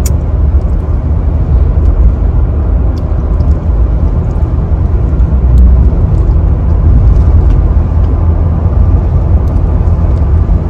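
Car driving along a road: a steady, loud low rumble of road and engine noise.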